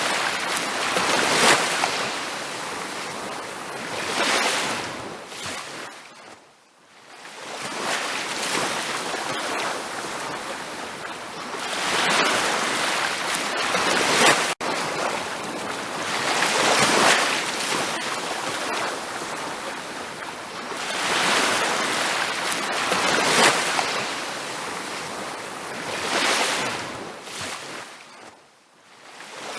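Ocean waves washing onto a beach in slow surges, each swell building and falling away over a few seconds. The sound nearly drops out twice, about seven seconds in and near the end, and cuts out for an instant about halfway through.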